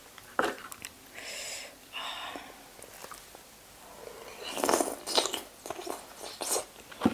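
Close-miked eating: a wooden spoon scrapes and clicks on a metal baking tray, then razor clam meat in fermented fish sauce is slurped and chewed with wet, crunchy mouth sounds, loudest about four to five seconds in.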